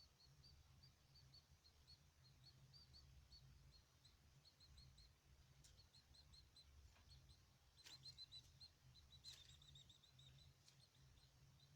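Faint chirping of caged birds: a steady run of short high chirps, several a second, with a few sharp clicks in the second half over a low hum.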